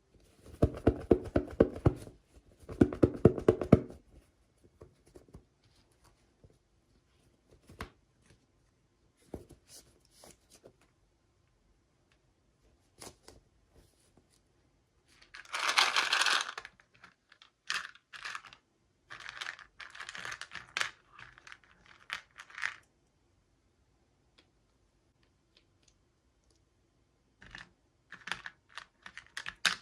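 Toy doll packaging being opened by hand: two short runs of rapid rattling clicks near the start, a loud tearing sound about halfway, then bursts of crinkling and rustling.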